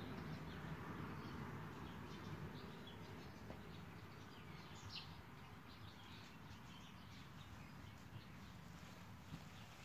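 Quiet open-air ambience with faint, scattered bird chirps, one a little clearer about halfway through, over a low steady background hum.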